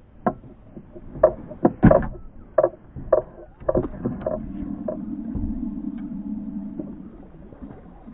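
A string of sharp knocks and clunks on a kayak, about a dozen in the first four seconds, then a steady low whirring that fades out near the end.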